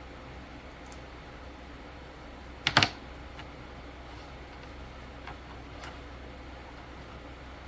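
Steady white-noise hiss with a quick, loud cluster of about three clicks a little under three seconds in, then a few faint ticks, like small objects handled at a desk.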